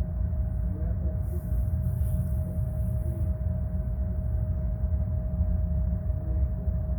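Armstrong Air furnace running after start-up: a steady low rumble with a constant whine over it.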